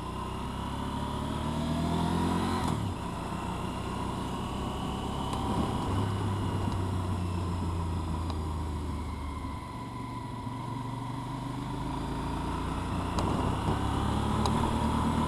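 Motorcycle engine under way: the engine revs climb for about three seconds, drop at a gear change, hold steadier, ease off around ten seconds in, then climb again.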